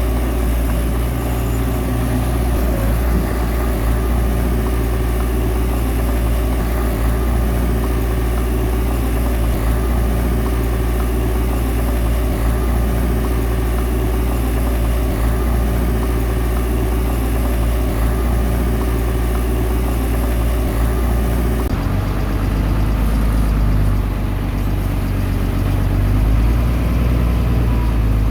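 Heavy diesel engine of earthmoving machinery running steadily, its sound changing about two-thirds of the way through.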